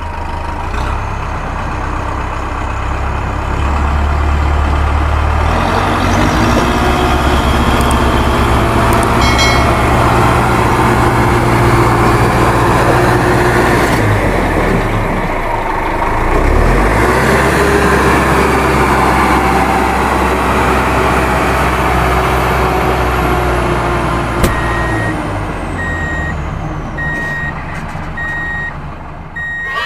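A heavy vehicle's engine running steadily, with its pitch dipping and recovering about halfway through. Near the end a run of evenly spaced reversing beeps starts.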